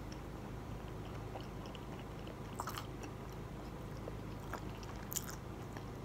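Faint chewing of fried food, with a couple of soft crunchy clicks about two and a half seconds in and again about five seconds in, over a low steady room hum.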